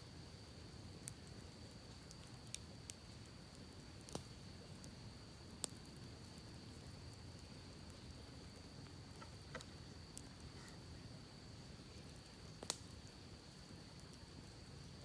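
Campfire crackling sparsely: about seven sharp pops and snaps of burning wood, scattered and irregular, the loudest one near the end, over a faint low rush of creek water.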